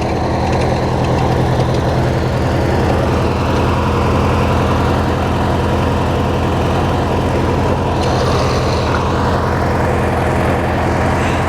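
Hechinger by MTD lawn tractor's small engine running steadily with a fast, even pulse as the tractor is driven.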